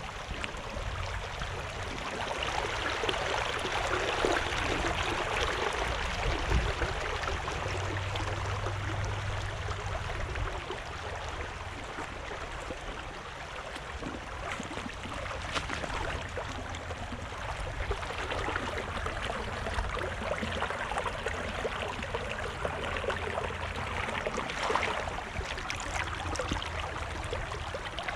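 Creek water rushing steadily, with the rush swelling a little about four seconds in and again near the end.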